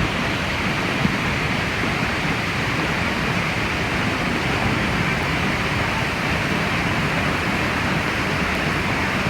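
Plunge waterfall's falling water: a steady, even rush of white noise.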